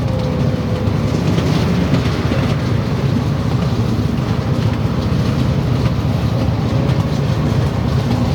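Train running along the track, heard from aboard as a steady low rumble.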